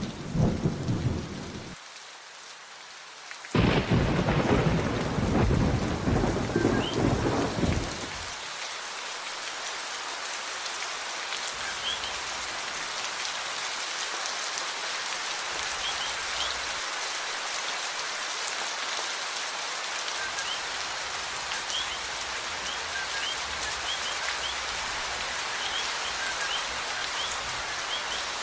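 Steady rain with thunder. A rumble at the start fades, then a louder rumble of thunder comes in about three and a half seconds in and dies away around eight seconds. After that there is only the steady rain, with faint short high chirps over it in the second half.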